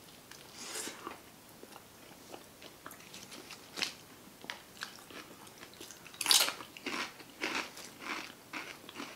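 Close-miked chewing of a burrito stuffed with Flamin' Hot Cheetos, with crisp crunches scattered through. The crunches bunch up and grow loudest about six seconds in.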